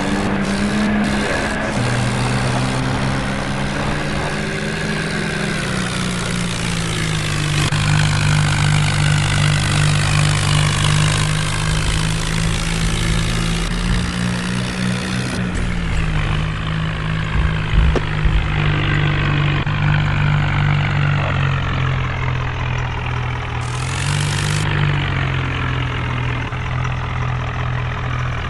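Tractor engine running steadily, its pitch rising and falling several times as the engine speed changes.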